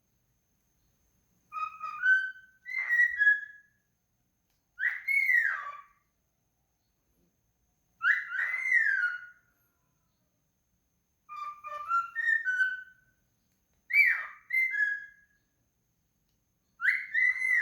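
A bird singing: about seven short, clear whistled phrases of two or three notes, many falling in pitch, each followed by a pause of a second or two.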